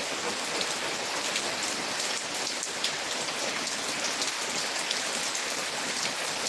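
Heavy rain falling steadily, a constant hiss with many small drop ticks spattering on surfaces.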